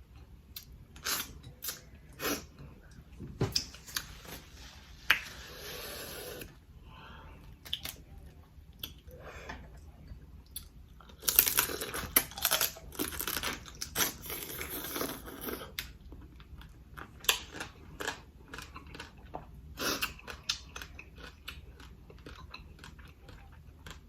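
Close-miked eating of spicy seafood boil with rice: wet chewing, smacking and biting, with scattered sharp clicks and a denser crackly stretch about halfway through.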